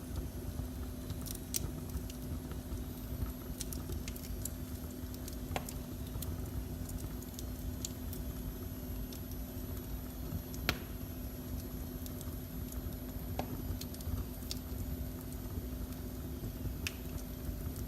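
Wood fire in a fireplace crackling, with scattered sharp pops over a low steady rumble and a faint steady hum; the loudest pop comes about ten and a half seconds in.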